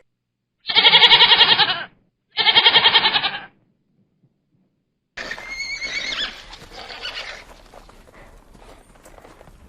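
A horse whinnying twice, each call about a second long with a rapid quaver. About five seconds in, a quieter, noisier sound with a few brief high gliding tones takes over.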